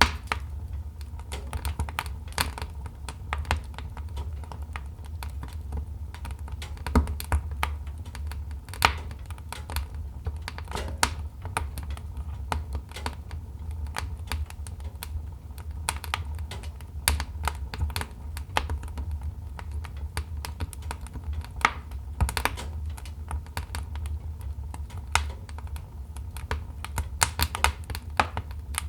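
Wood fire crackling in a fireplace: a steady stream of irregular sharp snaps and pops over a low, steady rumble, with a few louder pops scattered through.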